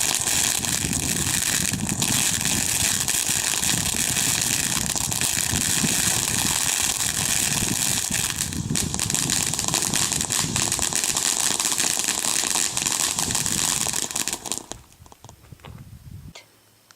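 A burning firework giving off a steady, dense hissing crackle that dies away about fifteen seconds in.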